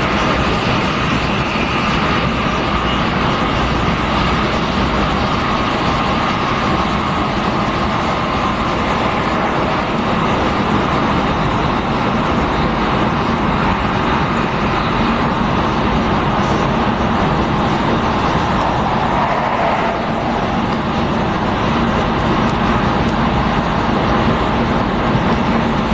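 X10 electric multiple-unit commuter train running along the track: steady wheel and rail noise with faint motor tones that shift in pitch, a lower one growing stronger in the second half.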